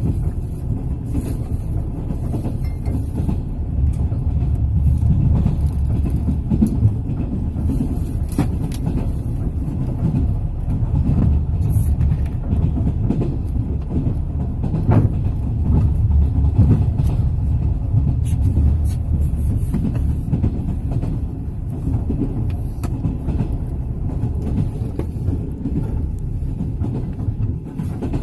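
Train wheels running over the rails with a steady low rumble, broken by irregular knocks as the wheels pass over rail joints.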